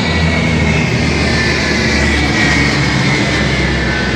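A formation of military aircraft flying past, a heavy steady engine noise with a deep hum underneath and a whine that slowly falls in pitch as the aircraft pass.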